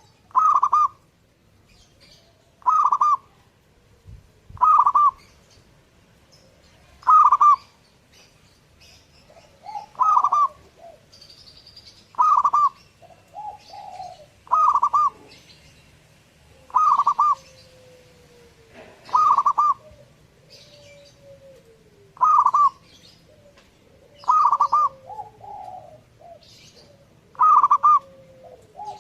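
Zebra dove (perkutut) cooing over and over, a loud call about every two to three seconds. Fainter, lower sliding coos and faint high chirps from other birds come in between.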